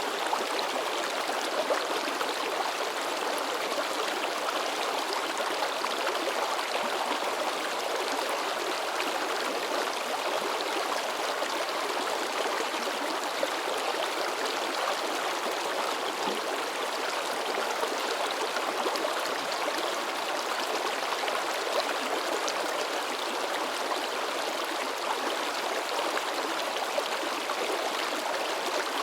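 Mountain river babbling and splashing in a steady, unbroken rush of water.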